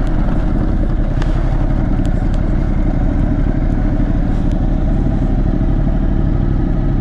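Ducati motorcycle engine running steadily at low speed as the bike rolls slowly along a rough unpaved road, with a few light ticks.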